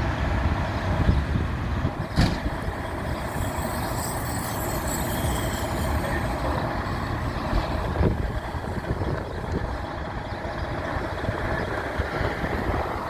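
Engine of a 1996 KME fire engine pumper running under way with a steady low rumble. There is a sharp sound about two seconds in and a weaker one about eight seconds in.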